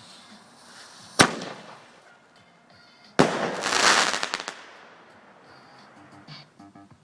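Fireworks going off: a sharp bang about a second in, then a louder bang about two seconds later, followed by a burst of crackling lasting over a second.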